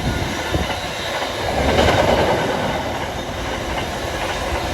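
A train running past on the line, a steady rumble and rush of wheels on rail that swells about halfway through.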